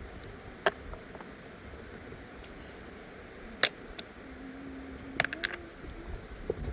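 A few sharp clicks or knocks: two single ones, the second the loudest, and a quick cluster near the end, over a steady low rumble. From about four seconds in, a dove gives one long, low coo that rises at its end.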